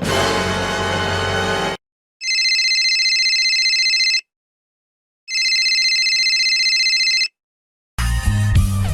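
A telephone ringing twice, each ring a steady high electronic tone lasting about two seconds, with about a second between the rings. Before it, a loud musical chord cuts off about two seconds in, and new music starts near the end.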